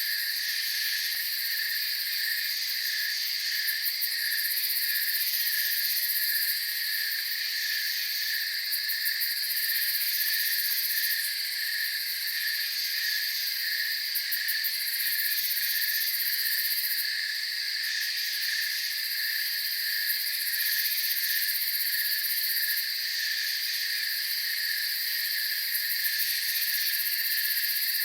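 Night chorus of crickets: a steady, evenly pulsing chirp layered over continuous higher-pitched trilling and buzzing.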